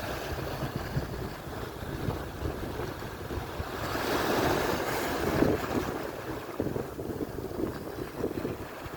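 Atlantic surf: waves washing on the shore, with one wave swelling louder about four seconds in. Wind buffets the microphone with a gusty low rumble.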